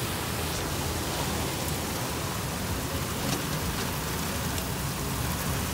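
Steady rain falling, with a few faint ticks.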